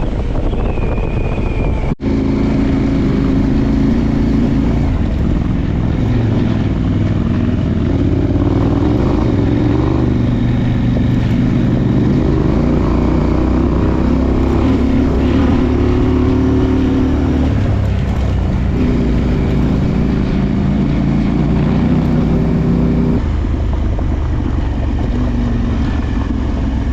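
Adventure motorcycle engine running as the bike is ridden, its pitch rising and falling with the throttle. The sound breaks off abruptly for an instant about two seconds in.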